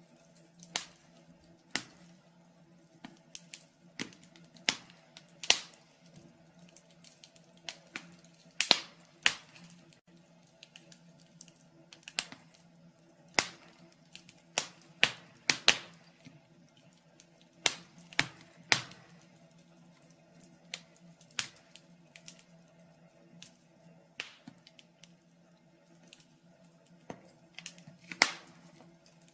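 Wood fire in a fireplace crackling: irregular pops and snaps, about one a second, over a faint steady low hum.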